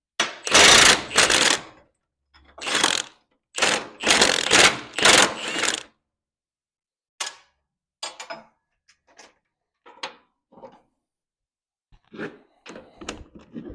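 Impact wrench run in three short bursts, each about one to two seconds long, on the truck's bolts. After that come a few light metal clinks and knocks.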